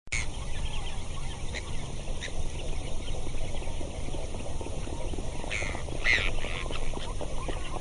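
Waterfowl calling from a lake: short calls scattered through, with a cluster of them a little past the middle, over a steady low rumble.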